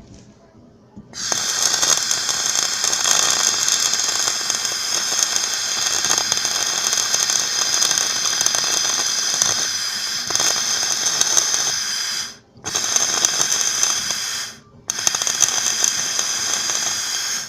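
Electric arc welding on a broken scooter frame: the arc crackles and sizzles loudly in one long run, then two short runs with brief breaks between them.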